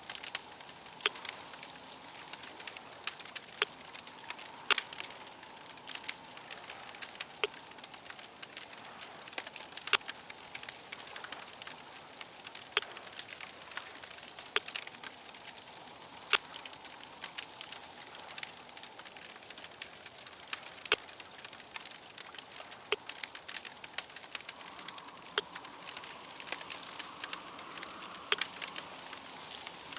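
Fire crackling: a steady hiss with sharp pops at irregular intervals.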